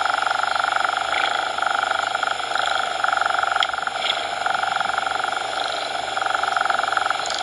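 Cat purring in repeated cycles that swell and ease about every second and a half, a fine rapid buzz throughout.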